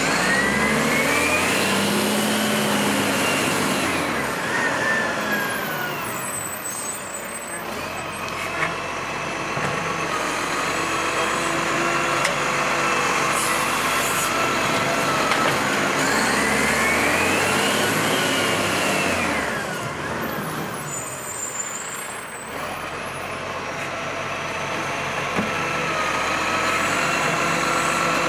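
MacDonald Johnston GenV garbage truck running, its engine revving up and back down twice, each time with a whine that rises and then falls, as it works its bin-lifting hydraulics.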